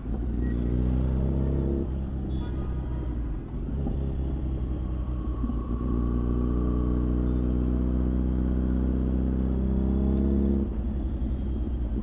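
Motorcycle engine running steadily while riding, its note breaking off and settling again a few times.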